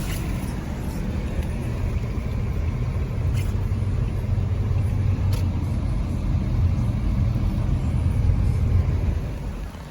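Steady low rumble of a car on the move, dropping off about half a second before the end.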